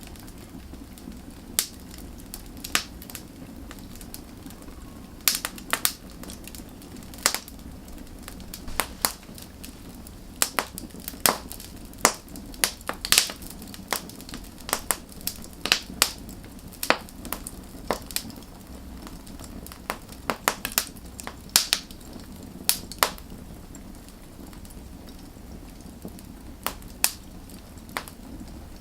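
Wood fire burning with a steady low rumble of flame and irregular sharp crackles and pops from the burning logs, busiest in the middle.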